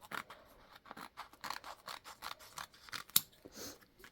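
Scissors snipping through a sheet of vinyl in a run of short, irregular cuts, with one sharper click about three seconds in.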